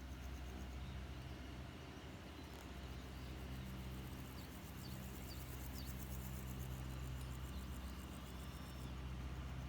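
Faint outdoor ambience: a steady low hum with a few short, high bird chirps in the middle, followed by a couple of thin drawn-out calls.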